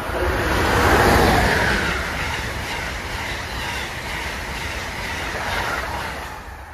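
Train passing at speed, a loud rushing rail noise that is strongest about a second in and dies away near the end.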